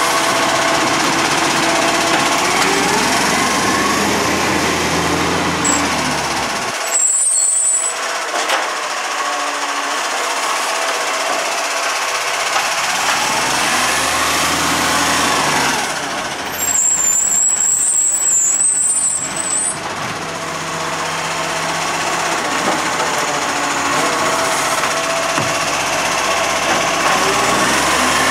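MacDonald Johnston side-loader garbage truck working: its diesel engine rises and falls in revs several times. There are two bursts of air hiss, a short one about seven seconds in and a longer one of about three seconds a little past the middle.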